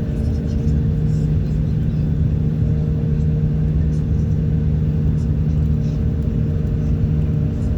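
Car interior noise while driving at a steady speed: a continuous engine hum and road rumble.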